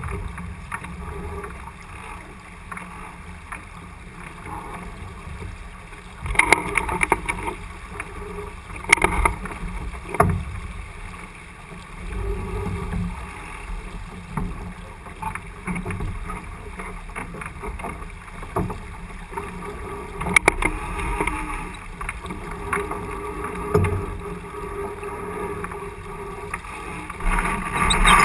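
Onboard a J80 keelboat under sail: a steady rush of water and wind with a low rumble, broken by a few sharp knocks and clatters from the boat.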